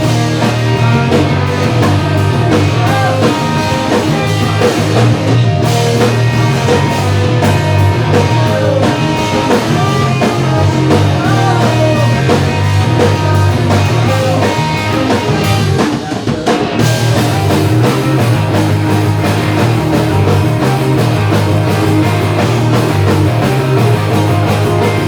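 Pop-punk rock band playing a song: guitar and drum kit, loud and driving, with a brief break about sixteen seconds in.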